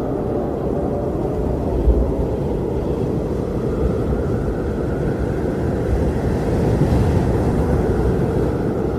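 Blizzard wind blowing hard and steadily, a deep rumbling rush that swells a little about two-thirds of the way through.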